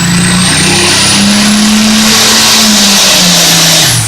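Alcohol-fuelled International 1466 super farm pulling tractor running at full power down the pulling track, with a high whine climbing slowly in pitch over the engine. About four seconds in, the engine drops off and the whine falls away.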